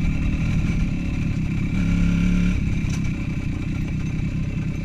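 Small motorcycle engine running, its firing pulses steady, with a held tone for about a second near two seconds in.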